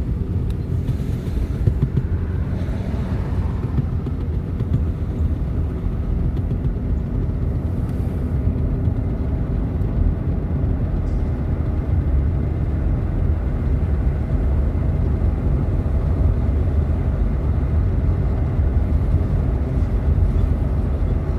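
Steady low rumble of a car driving along the road: engine and tyre noise heard from inside the cabin.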